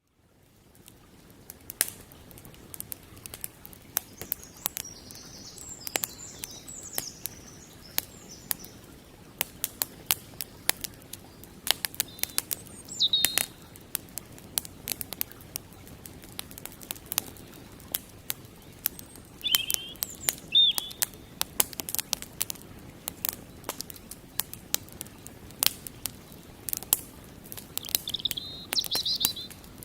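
Wood campfire crackling, with frequent sharp pops and snaps at irregular moments. Birds chirp briefly a few times in the background.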